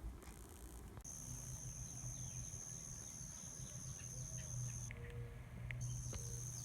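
Insects in summer trilling as a steady high-pitched chorus that stops for about a second near the five-second mark and then resumes, with scattered faint bird chirps and a low steady hum underneath.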